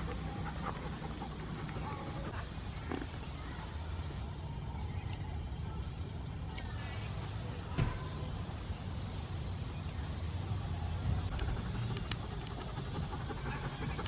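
An insect trilling on one high, steady note: broken pulses at first, then held for most of the stretch before cutting off near the end. A low steady rumble runs underneath, with a few sharp clicks, the loudest about two-thirds of the way through.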